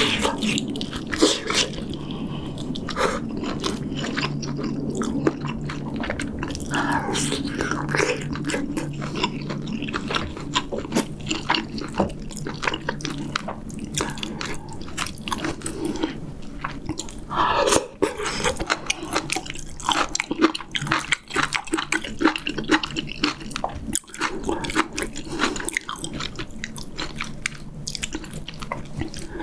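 Close-miked chewing and biting of pork back rib meat and braised kimchi, with many wet mouth clicks and smacks. A faint steady low hum runs underneath.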